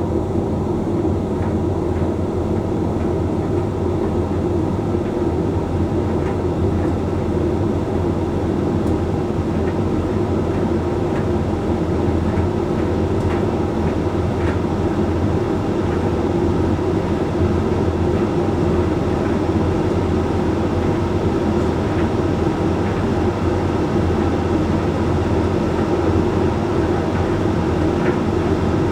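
Hoover Link X Care HLX C10DRGR condenser tumble dryer running mid-cycle: a steady hum from the motor and fan as the drum turns and the load tumbles, with a few faint clicks here and there.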